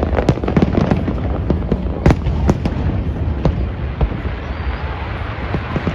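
Aerial fireworks going off in a rapid barrage of bangs and crackles over a continuous low rumble, with the sharpest reports in the first half.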